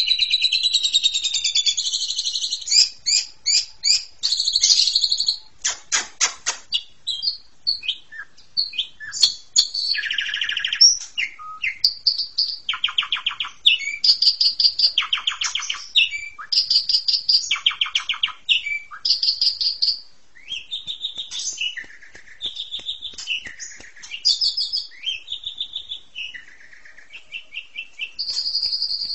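Asian pied starling (jalak suren) singing busily, a long, varied song of clear whistled notes mixed with fast clicking runs and harsh, buzzy phrases.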